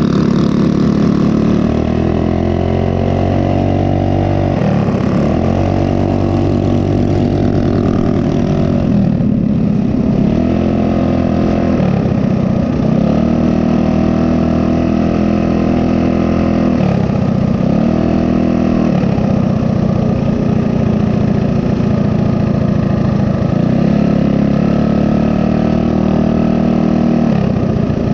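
Mini bike's small single-cylinder engine running while riding, its pitch repeatedly dropping as the throttle eases off and climbing again as it is opened, about half a dozen times.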